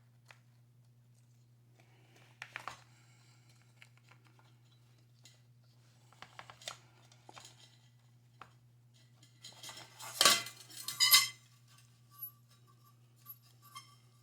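Metal parts of a gas water heater's burner assembly clinking and scraping in short, scattered bursts as its small tubes are worked into place, loudest about ten seconds in.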